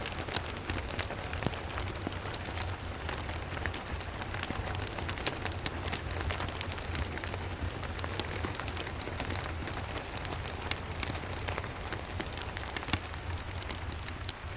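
Steady rain mixed with a fireplace, with many small sharp crackles and drop ticks scattered through it and a steady low rumble underneath.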